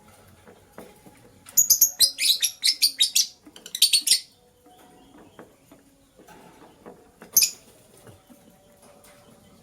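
Lovebird chirping: a rapid run of shrill chirps starting about a second and a half in and lasting over two seconds, then one more sharp chirp near the end, over faint tapping and scratching.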